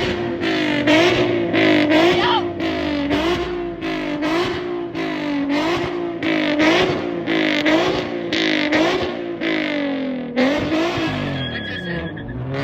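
Infiniti G37's 3.7-litre V6 revved hard again and again through its new Y-pipe and deleted muffler, the engine note rising and dropping about once a second.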